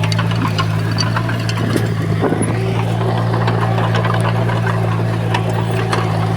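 Heavy diesel engine of earthmoving machinery running at a steady speed, with scattered light clicks and clanks over the drone.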